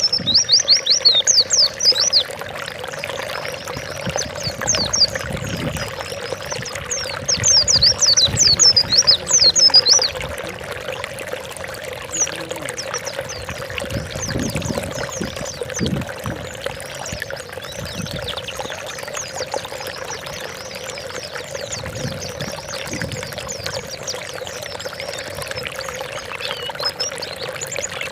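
White-eye (pleci) singing rapid strings of high, steeply falling notes. It is loudest in bursts at the start and again about seven to ten seconds in, fainter after that, over the steady sound of running water.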